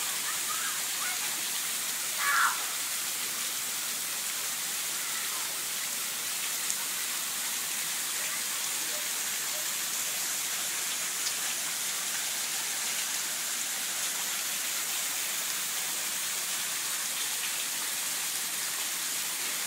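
Steady rain falling, an even hiss. About two seconds in there is one short, louder sound.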